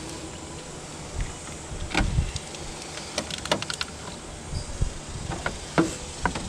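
Scattered light clicks and knocks of wiring and small parts being handled and fitted into place, with a quick run of clicks a few seconds in.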